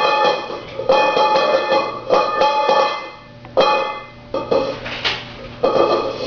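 A bowl being banged about, struck again and again at an uneven pace, each hit ringing on in several clear tones.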